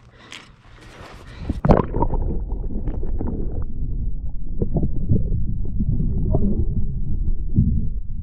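Water sloshing and gurgling against a plastic kayak hull, with a low rumble and repeated knocks and thumps on the hull, starting loudly about two seconds in.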